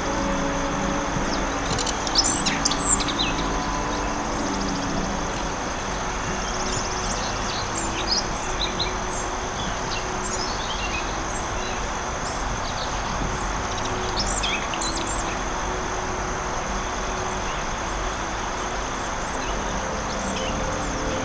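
Forest birds chirping and trilling in scattered bursts, busiest a couple of seconds in and again around the middle, over a steady rushing background wash and a thin, constant high-pitched hum.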